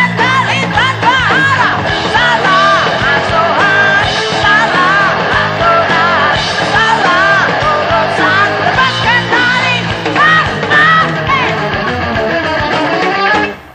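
Recording of an Indonesian rock song: a full band with a high lead melody swooping up and down in pitch. The music drops off abruptly near the end.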